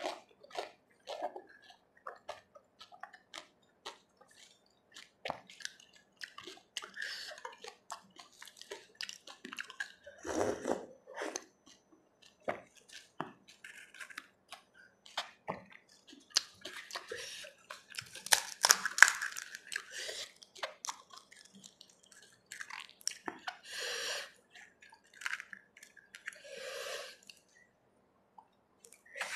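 Close-miked eating of pani puri: crisp hollow puri shells cracking between the teeth, then wet chewing of the filling and spiced water, with irregular crisp clicks throughout. The loudest burst of crunching comes a little past halfway, and near the end a shell is dipped into the bowl of pani with dripping.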